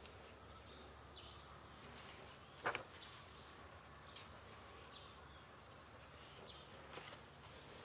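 Faint rustling of paper pages being turned in a colouring book, over a steady low hum, with one brief sharper sound about a third of the way in.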